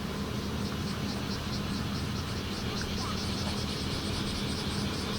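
Bear cicada (kumazemi) calling, a rapid pulsing buzz that sets in about half a second in and grows stronger, over a steady low hum.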